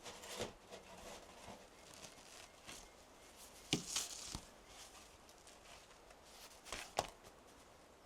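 Small handling noises: scattered rustling and light clicks, with two sharper knocks, the first just before four seconds in with a short rustle after it, the second about seven seconds in.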